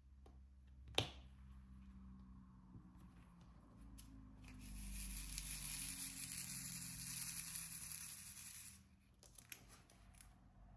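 A sharp click about a second in, then a steady tearing hiss for about four seconds that stops suddenly, like plastic film being peeled back from a diamond painting canvas.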